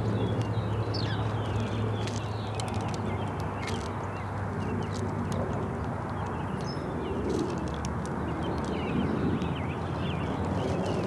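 Small birds giving short, high chirps and calls at a feeder, with scattered sharp clicks, over a steady low hum.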